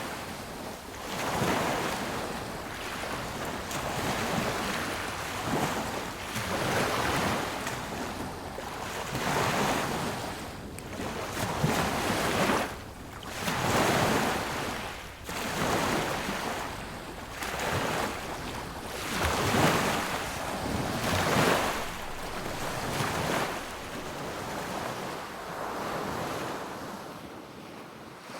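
Sea waves breaking and washing on a beach, the surf swelling and falling away every couple of seconds with a steady wash between breakers.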